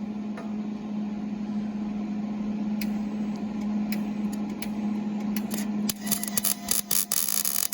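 Miller-Matic 141 MIG welder: a steady hum, then about six seconds in the arc strikes and crackles and sputters in short runs of welding.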